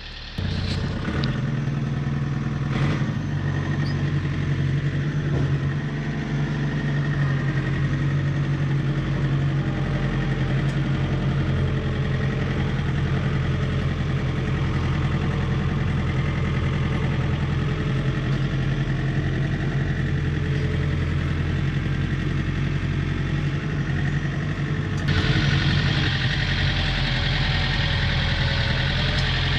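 John Deere tractor engine running steadily while plowing snow. It gets louder and harsher near the end.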